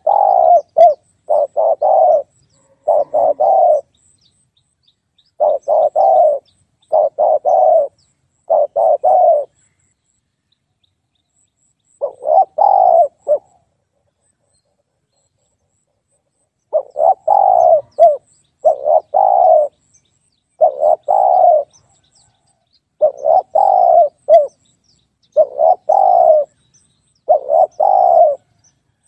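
Spotted dove cooing: phrases of a few short notes repeated again and again, with two pauses of a few seconds near the middle.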